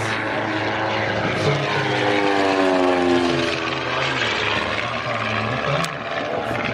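Propeller aircraft flying past, its engine note sliding down in pitch as it goes by.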